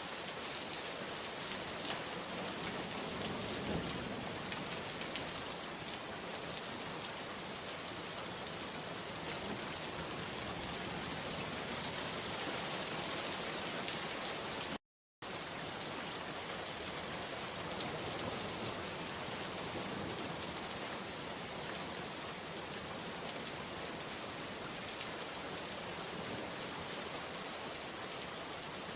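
Steady rain falling and pattering on surfaces, a dense even hiss of drops. The sound cuts out completely for a split second about halfway through, then resumes.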